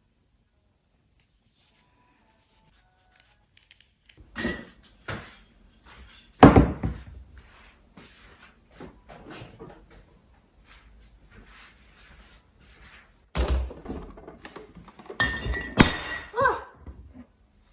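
A series of thuds and knocks from objects being handled and set down, the loudest about a third of the way in and another cluster near the end, with a brief squeak among them. The first few seconds are nearly silent.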